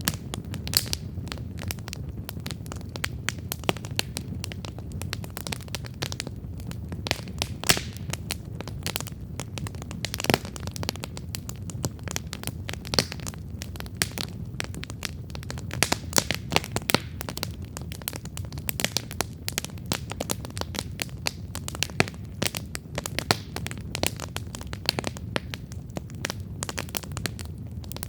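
Wood campfire burning with steady crackling: frequent sharp pops and snaps, irregularly spaced, over a low steady rumble of the flames.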